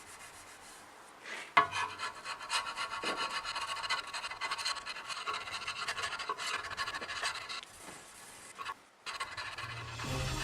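Hand scraper scraping rust off the rusty cast-iron table of a Rockwell Beaver table saw, in quick back-and-forth strokes. It starts about a second and a half in and stops shortly before the end, where music comes in.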